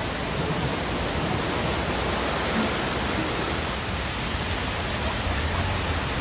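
Steady rushing noise of torrential rain and running water, with no distinct events.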